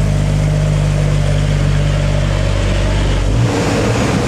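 Heavy truck's diesel engine running steadily on a climb, its note changing abruptly a little over three seconds in.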